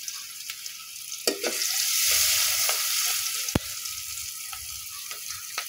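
Sliced onion, garlic and whole spices sizzling in hot oil in a metal pot, with a spoon stirring them and knocking against the pot a few times. The sizzle swells louder about two seconds in.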